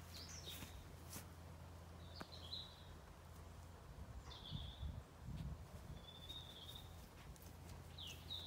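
Faint bird calls: a short chirp every second or two, several of them quick falling notes. A steady low hum runs underneath, with a brief low rumble about halfway through.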